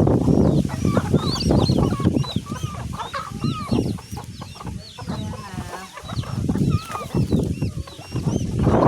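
A flock of free-range chickens clucking, with many short, overlapping calls. Under the calls runs a loud low rumble, heaviest in the first few seconds.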